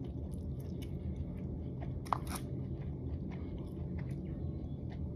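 Close-up chewing and crunchy biting of food, many short crunches in a row, with one sharp click about two seconds in, like chopsticks striking the bowl.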